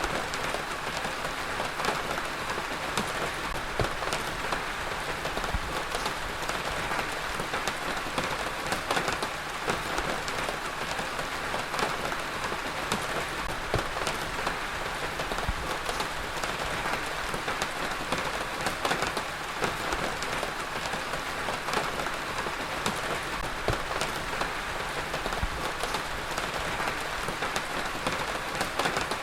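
Heavy rain falling steadily, a dense hiss of rain on a surface with many individual drop impacts ticking through it.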